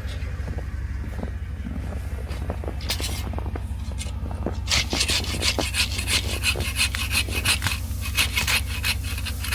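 Hand saw cutting through a fallen tree, its rasping strokes coming fast and even, about four a second, from about halfway in, over a steady low hum.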